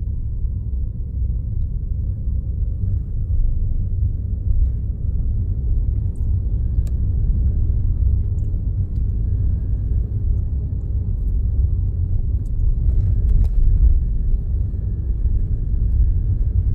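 Steady low rumble of a car being driven: engine and road noise heard from inside the cabin, with a couple of faint clicks.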